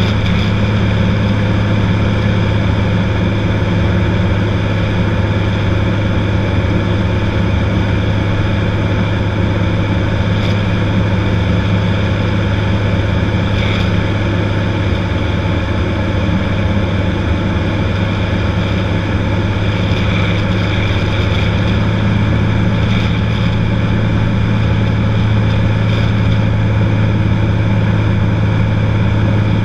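Cessna 182's single piston engine and propeller droning steadily, an even low hum with no change in pitch or level.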